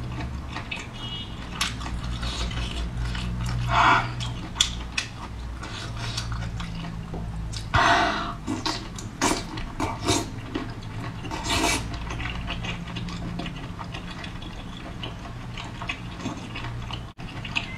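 A person chewing sauce-coated braised squid close to the microphone: irregular wet, sticky mouth clicks and smacks, with louder bites or slurps about four, eight and twelve seconds in. The squid is quite chewy.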